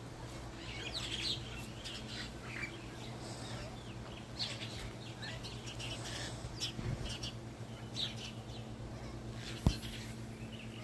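A flock of small birds chirping busily in many short, overlapping calls, over a steady low hum. Near the end comes a single sharp click.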